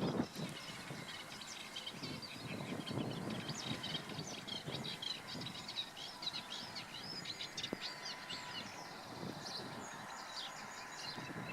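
Small songbirds singing and chirping, a dense run of quick, high notes through the middle, over a low, uneven background rumble.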